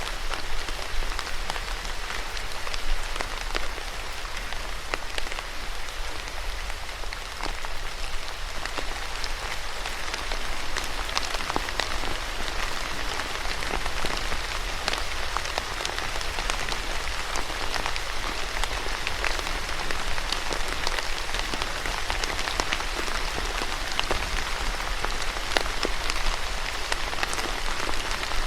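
Steady rain falling, with many individual drops pattering close by on a hard surface.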